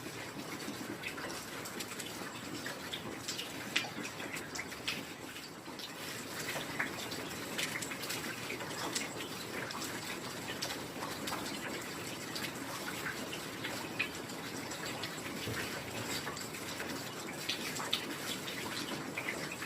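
Steady rain falling, with many close drops striking in sharp, irregular ticks over an even hiss; a couple of louder drops land about four seconds and fourteen seconds in.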